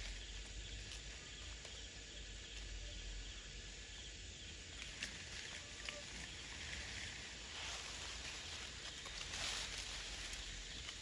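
Outdoor rural ambience: a steady hiss with a faint rapid pulsing high up and a few scattered clicks.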